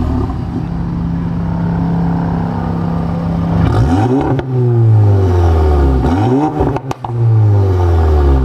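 Volkswagen Golf Mk7's turbocharged four-cylinder engine through an Armytrix valvetronic exhaust. It holds a steady drone for about three and a half seconds, then the revs climb quickly and fall back slowly, twice.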